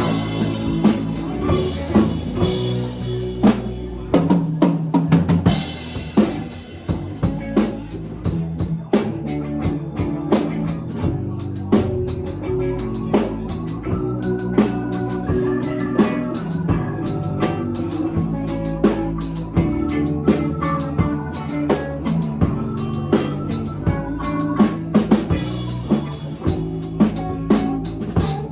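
A live rock band playing an instrumental passage, with a drum kit keeping a steady beat of kick, snare and rimshots under sustained guitar or bass notes.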